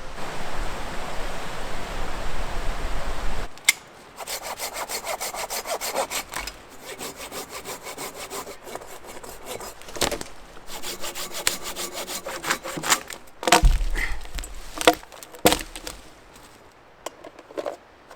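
Hand saw cutting through wood in quick, even strokes, after a few seconds of steady rushing noise. Near the end come a few loud knocks.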